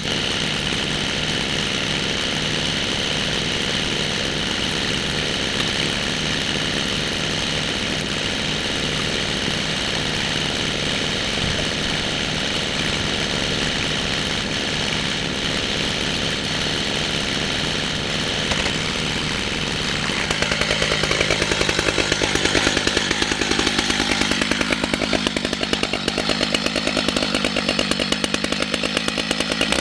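Chainsaw running at steady full throttle under load, ripping lengthwise through a red oak log in a chainsaw mill. About two-thirds of the way in the sound turns a little louder and rougher, and it keeps cutting without a break.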